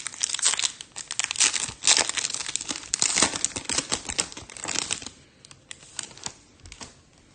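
A foil trading-card pack wrapper being torn open and crinkled, a dense crackling for about five seconds, followed by a few light clicks.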